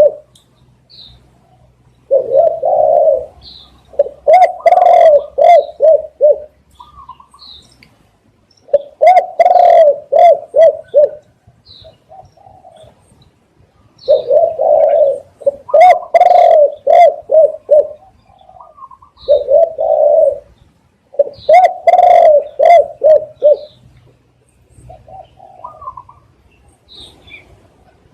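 Spotted dove cooing: loud, low, rhythmic coo phrases in six bouts, a few seconds apart. Faint short high chirps fall in the gaps.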